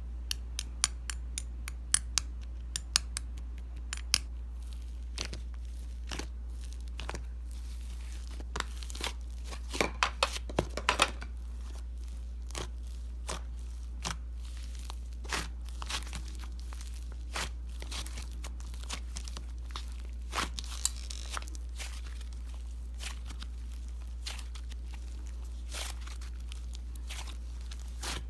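Paper and plastic being handled up close: crinkling, peeling and light clicking taps, with a louder burst of crackles about ten seconds in. A steady low hum runs underneath.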